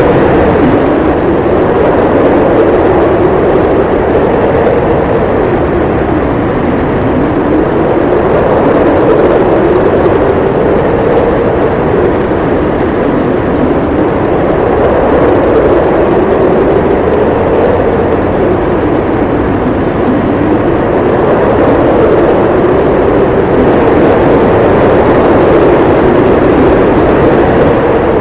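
Howling blizzard wind: a loud, continuous rush with a howl whose pitch slowly rises and falls every few seconds.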